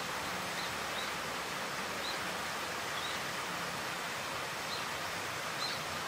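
Female Daurian redstart calling with short, thin, high single notes, about one a second, over a steady hiss of outdoor background noise.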